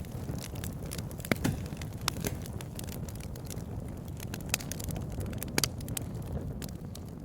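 Wood fire crackling, with frequent sharp pops and snaps at irregular moments over a steady low rushing sound.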